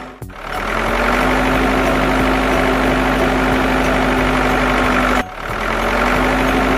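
A construction machine's engine running steadily. It cuts out briefly twice, just after the start and about five seconds in, and each time spools back up to a steady running pitch.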